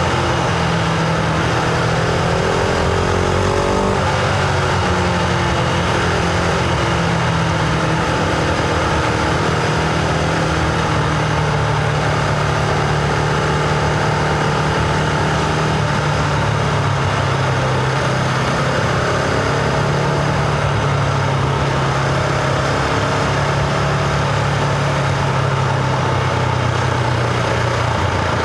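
Husqvarna Vitpilen 701's single-cylinder engine pulling the bike along, heard from the rider's position with wind rush. The engine note rises, breaks briefly about four seconds in, then holds fairly steady.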